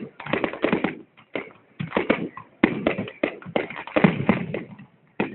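Fireworks going off in a rapid, irregular string of cracks and pops, several a second, with brief lulls about a second in and near the end.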